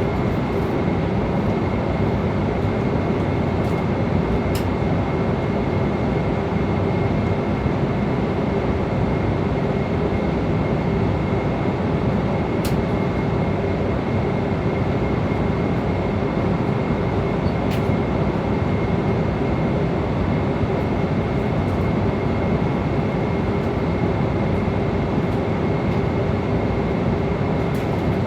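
Airliner cabin noise in flight: a steady, even rush of engine and airflow noise with a constant high whine and a low hum, and a few faint ticks.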